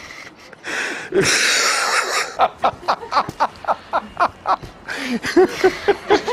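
A person in a fit of laughter: a long wheezing breath about a second in, then runs of rapid rhythmic laughing pulses, about five a second.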